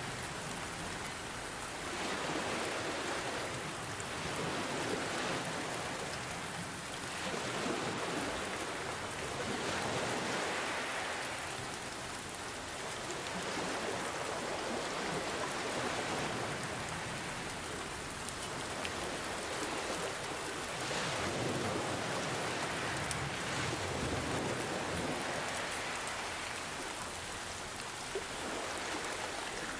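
Steady rain hissing, with gentle ocean waves surging and washing in underneath, a slow swell every few seconds.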